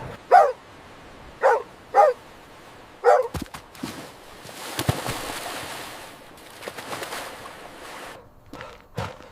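Dog barking: four short, high barks within the first three seconds, followed by a few seconds of quieter hissing noise and light knocks.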